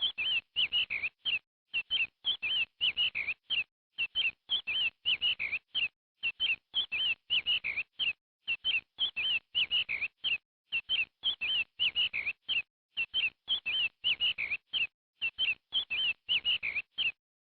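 A small bird chirping over and over: short, high calls in quick clusters of two to four, with brief gaps between clusters.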